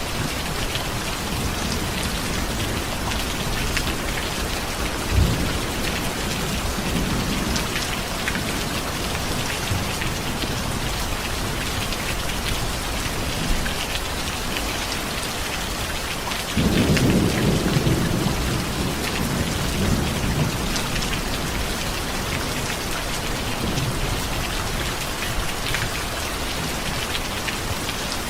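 Steady heavy rain hissing and pattering, with rolls of low thunder: a soft rumble early on and a louder roll breaking in suddenly a bit past halfway, then fading over a few seconds.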